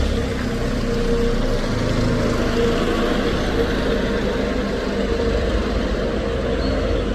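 A bus running, with steady engine drone and road noise and a steady whine over it.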